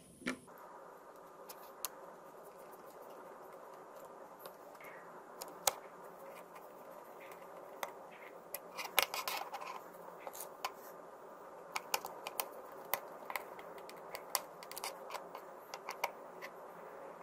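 Irregular light clicks and taps of small plastic phone parts being handled, with a cluster of quick clicks about nine seconds in and more through the later part, over a steady background hum.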